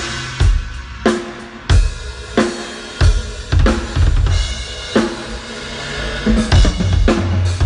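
Acoustic drum kit being played: a cymbal crash at the start, then regular drum strikes about every two-thirds of a second, some with a pitched ring, under ringing cymbals.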